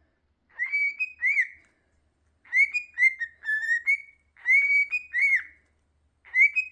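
Pet cockatiel whistling a tune: three phrases of short, clear whistled notes that rise and fall in pitch, with pauses between them and a fourth phrase starting near the end.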